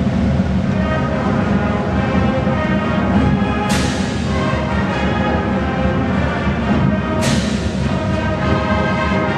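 High school marching band playing: brass holding full sustained chords over drums, with cymbal crashes twice, about three and a half seconds apart.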